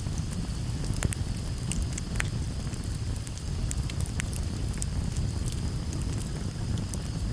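Campfire burning: a steady low rumble of flames with sharp crackles and pops of burning wood scattered irregularly, a few to several a second.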